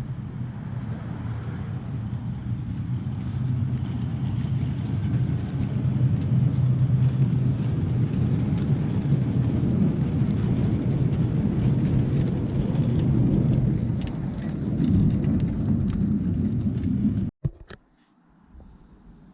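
Miniature 7¼-inch gauge train running along the track: a steady rumble of wheels on rails that builds up, with light clicking near the end, then cuts off abruptly.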